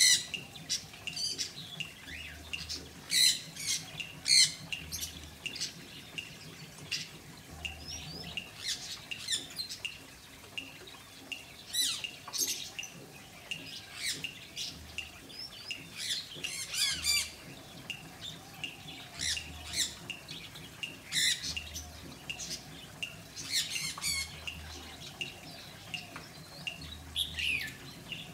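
Pet birds calling: many short, high calls, some in quick runs, overlapping throughout.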